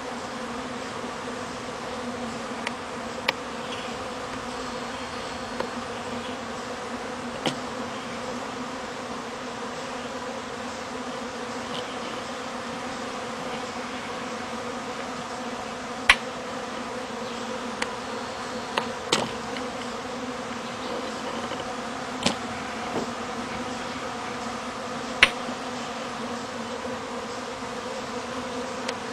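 Honey bees buzzing in a steady hum as many fly in and out of a busy hive entrance, with a few scattered sharp ticks.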